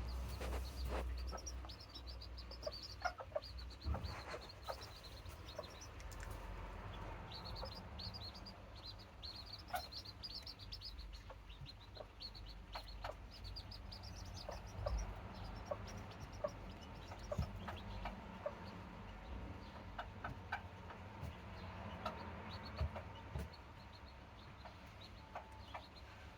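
Day-old Serama bantam chicks peeping in quick runs of short, high chirps, with the hen clucking and scattered light ticks throughout. The chirping thins out in the last few seconds.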